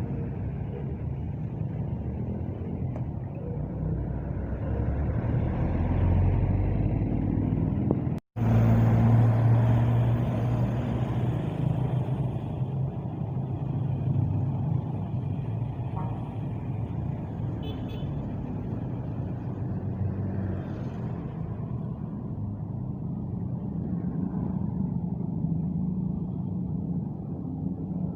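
Large bus diesel engines running with a steady low rumble, cut off for an instant about eight seconds in and louder just after.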